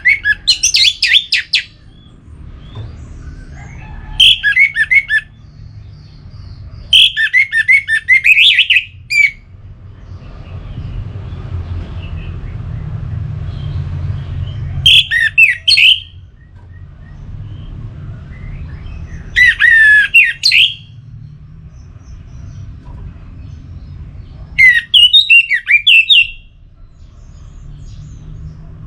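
Orange-headed thrush singing in loud, rich warbled phrases of one to two seconds, six phrases with pauses of a few seconds between them. A steady low rumble runs underneath.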